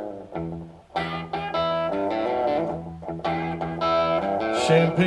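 Electric guitar playing a slow blues intro riff as a live band starts a song, picked notes over a steady low bass note.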